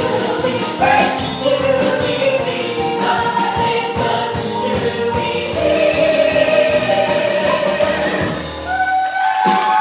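Stage-show finale music: several voices singing together in long held notes over instrumental accompaniment with a steady beat, briefly dropping away about nine seconds in before a new held chord starts.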